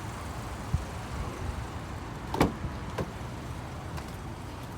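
A few light knocks and clicks over a steady low rumble. The loudest is a sharp click about two and a half seconds in, with a weaker one just after.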